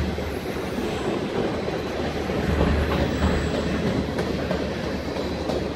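Freight train of flatcars rolling past: a steady rumble of steel wheels on the rails, with a few faint clacks at the rail joints near the end.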